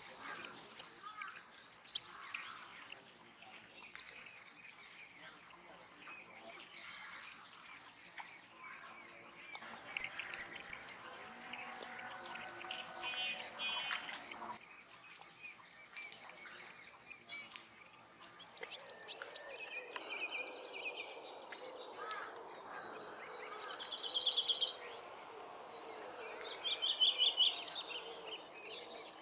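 Wild birds calling: a string of short, high chirps, turning into a faster, louder run of chirps about a third of the way in. Quieter mixed trills follow.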